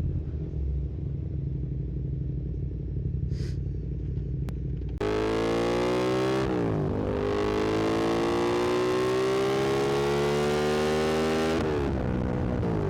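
Yamaha MT-07's parallel-twin engine running at low revs, then accelerating hard about five seconds in: the revs climb, drop at an upshift, climb steadily for several seconds, and drop at two more quick upshifts near the end.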